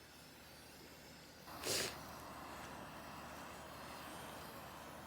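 A handheld torch lighting with a short whoosh about a second and a half in, then a faint steady hiss of its flame held to a potassium nitrate and sugar rocket motor.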